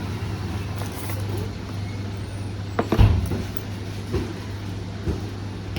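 A steady low mechanical hum, with one sharp knock about three seconds in.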